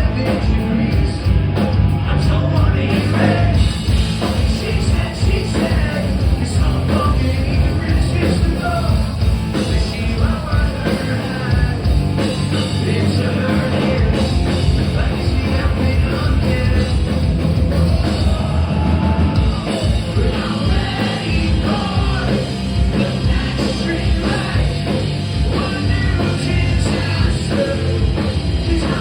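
Live punk rock band playing loud, with distorted guitars, bass and drums, and a lead singer singing and shouting over them.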